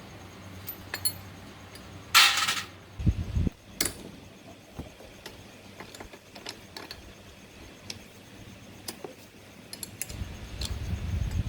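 Tools and metal parts being handled on a workbench: scattered light clinks and clicks, a short hiss-like burst about two seconds in, a couple of low knocks just after, and a low rumble building near the end.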